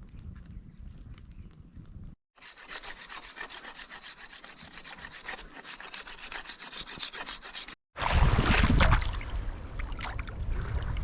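Quick, rhythmic rasping strokes of a blade working on wood for about five seconds. After a cut, loud wind rumbles on the microphone.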